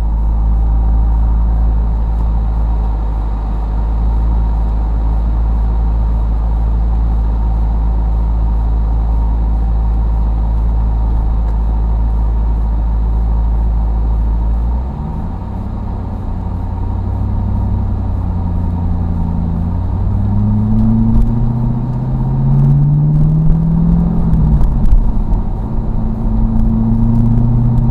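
C5 Corvette's V8 idling steadily, then pulling away about halfway through and accelerating, the engine note rising in pitch and getting louder, with a brief dip like a gear change before it climbs again near the end.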